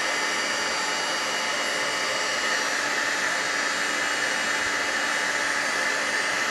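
Handheld hot-air heat tool blowing steadily with a faint whine, shrinking a piece of shrink plastic.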